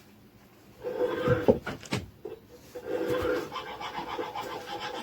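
A few knocks, then from about three seconds in a steady back-and-forth rasp of hand-sawing metal: a sacrificial zinc anode for the engine being cut down to size.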